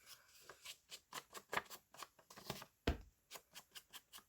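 Paper being handled on a craft table: a run of quick, irregular light taps and rustles, with one low thump about three seconds in.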